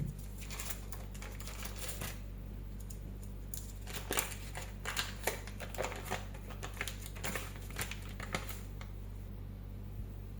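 Irregular sharp clicks and taps of kitchen utensils, coming in quick clusters and stopping about nine seconds in, over a steady low hum.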